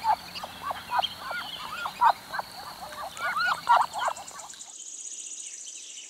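Muscovy ducks calling: a quick run of short, arched calls, several overlapping, that stops about four and a half seconds in. A faint high, steady tone follows.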